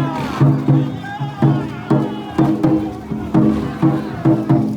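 Festival music from a kujirabune (whale-boat float): a steady drumbeat, about two to three strokes a second, with voices chanting over it.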